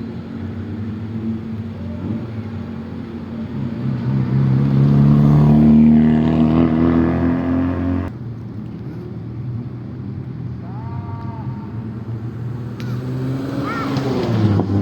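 Car engines revving as cars pull away; one engine climbs in pitch for a few seconds and then drops off sharply, and another revs up and falls again near the end.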